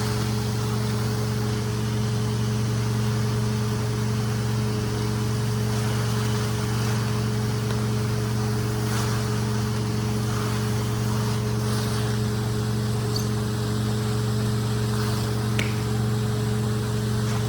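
Rug-cleaning equipment running with a steady, even hum and a rushing hiss.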